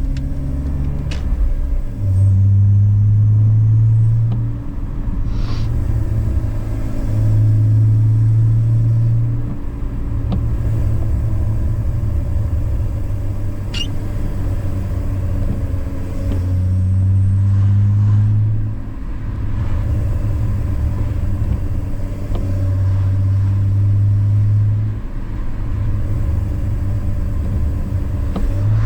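BMW E46 inline-six engine with a K&N cold-air intake running at steady low revs while driving, a low drone that swells and eases several times every few seconds, over road rumble.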